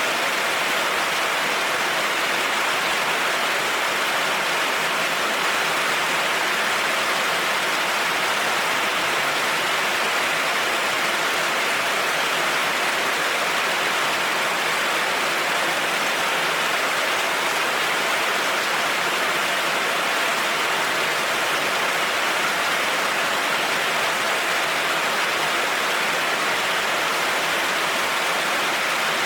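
Heavy rain falling steadily, an even hiss of rain with no thunder and no changes.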